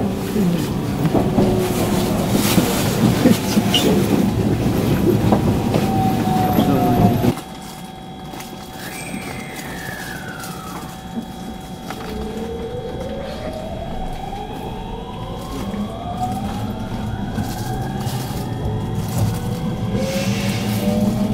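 Electric train heard from inside the passenger car: loud running rumble with wheel clatter for the first seven seconds or so, then a sudden drop to a quieter hum. From about halfway, the traction motors' whine rises in pitch in several parallel tones as the train accelerates.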